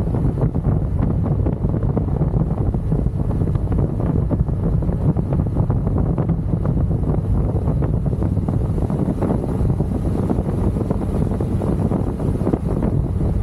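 Steady wind rushing over the microphone, with the low rumble of a motorcycle riding at speed underneath.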